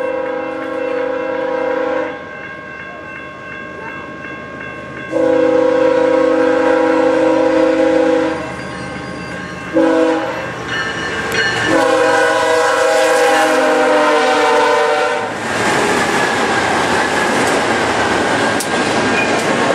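A BNSF GE ES44DC locomotive sounding its five-chime air horn in the grade-crossing pattern: two long blasts, a short one, then a long one that drops slightly in pitch as it passes. After that comes the steady roar and wheel clatter of a double-stack intermodal freight train rolling past at speed.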